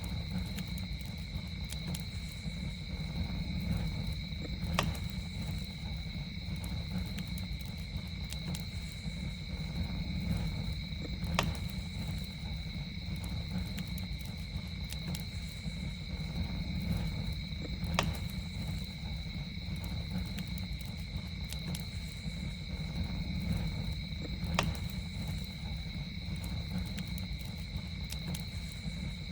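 Campfire burning with a low rumble and a sharp pop every six or seven seconds, over a continuous high trill of night insects.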